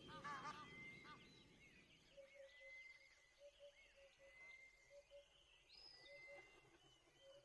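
Faint bird calls: a quick run of repeated gobbling notes in the first half second, then scattered short chirps and soft, repeated low notes.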